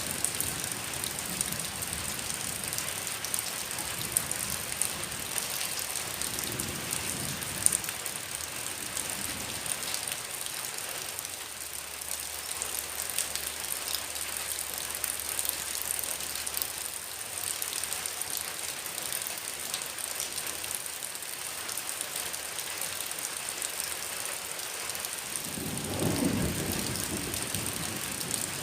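Heavy rain falling steadily, with a faint thin high tone over it. Near the end a low rumble swells briefly over the rain.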